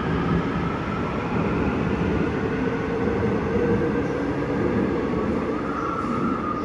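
Seoul Subway Line 9 electric train running at the platform, a steady rumble of wheels with motor whines that drift slowly in pitch.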